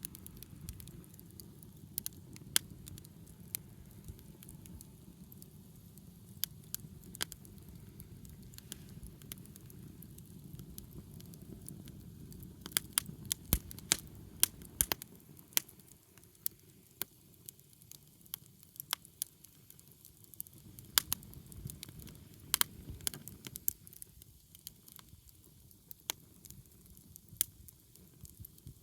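Wood bonfire crackling, with scattered sharp pops that come thickest about halfway through and again a few seconds later, over a low rumble of flame that dies down after the middle.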